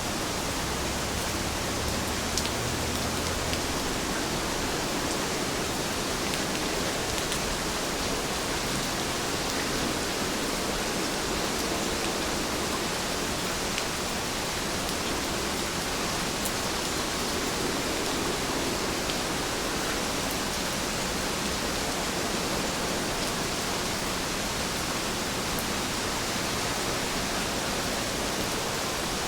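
Steady rain falling: an even, continuous hiss with a few faint drop ticks here and there.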